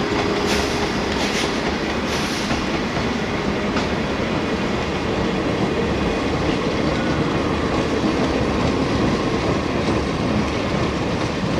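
Passenger train hauled by a Progress Rail MDGT42ACL diesel locomotive running past, the steady rumble of the locomotive and coach wheels on the rails, with a few brief high-pitched squeals in the first few seconds.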